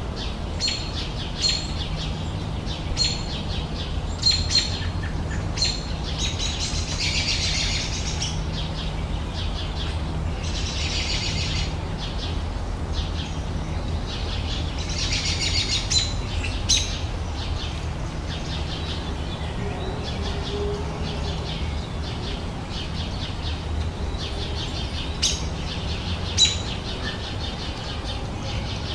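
Wild birds singing: short chirps repeated every second or so, and three longer rapid twittering phrases of a couple of seconds each. A steady low hum runs underneath.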